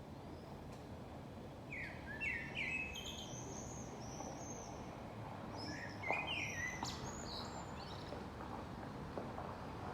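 Songbirds singing in two short bouts of quick chirping and falling notes, about two seconds in and again about six seconds in, over steady background noise.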